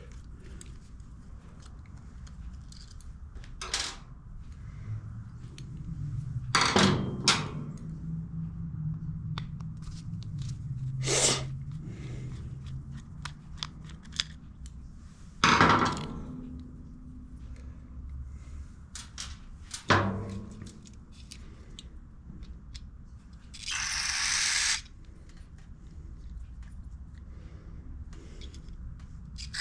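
Small metal carburetor parts and hand tools clicking and knocking as they are handled, with a short hiss lasting about a second near the end.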